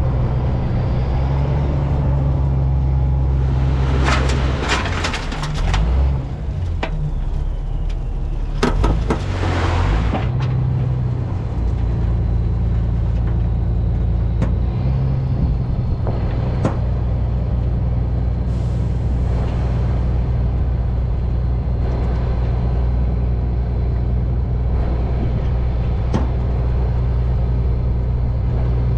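Diesel engine of a Gehl asphalt paver running steadily, with two bursts of clattering knocks a few seconds in and about nine seconds in, and a few single knocks later.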